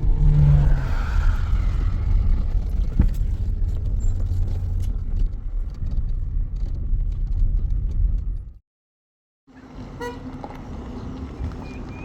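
Steady low rumble of a motor vehicle that cuts off abruptly about eight and a half seconds in. After a second of silence a quieter background with a faint steady hum follows.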